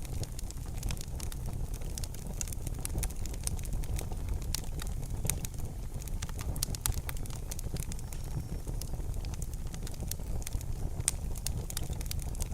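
Wood fire burning in a fireplace, a steady low rumble with irregular sharp crackles and pops scattered throughout.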